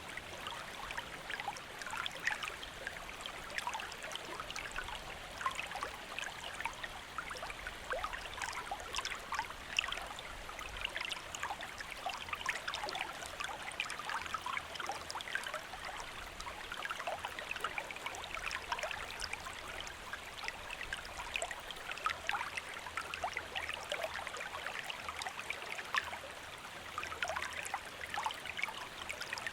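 Shallow stream flowing steadily, a continuous rush of water dotted with many small splashes and bubbling trickles.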